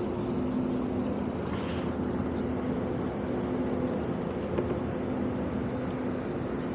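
Tugboat's diesel engine running as it pulls out, a steady low drone with a constant hum.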